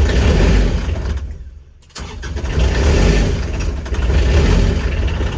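Kubota RTV900's three-cylinder diesel running rough on fuel gelled by extreme cold. It fades nearly away for about half a second, a little over a second in, then picks back up suddenly.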